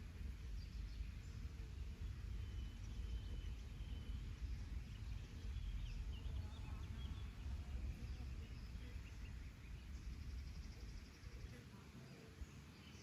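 Songbirds chirping and calling, with several short chirps and a rapid trill a little past ten seconds, over a steady low rumble of outdoor background noise that eases near the end.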